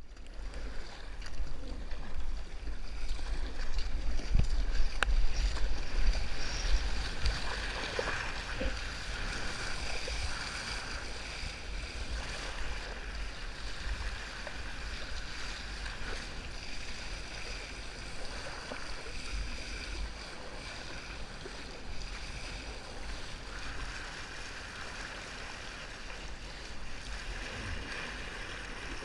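Sea water rushing and splashing around a kayak surfing on waves, with wind buffeting the microphone; loudest in the first several seconds, then settling to a steadier wash.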